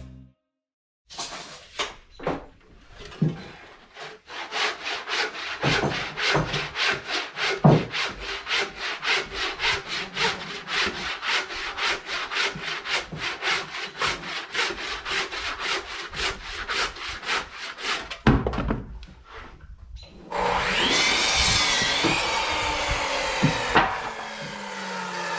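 Hand saw cutting a heavy timber in quick, even back-and-forth strokes, about three a second. A louder, steadier whirring sound with pitched tones takes over near the end, one tone sliding down in pitch.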